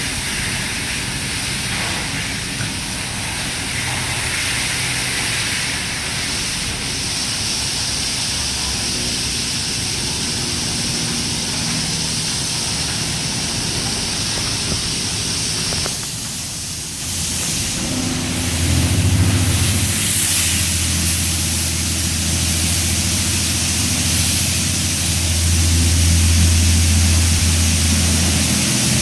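WashWorld Razor touchless in-bay car wash running: a steady hiss of water spray. About two-thirds of the way in, the hiss briefly drops, then a louder, steady low machine hum starts and continues.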